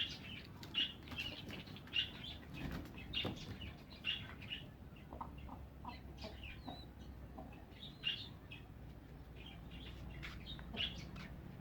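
Hens and chicks cheeping and clucking while they feed on scattered grain. Short high chirps come every half second to a second, with a few sharper clicks among them.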